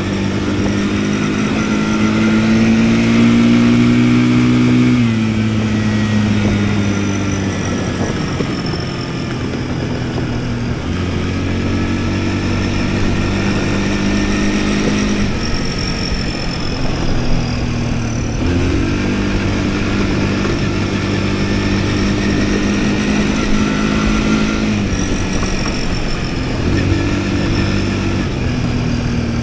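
Yuki Tract 200 ATV engine running on the move. It holds a steady pitch for several seconds at a time and shifts up or down every few seconds as the throttle changes, with a faint high whine above it.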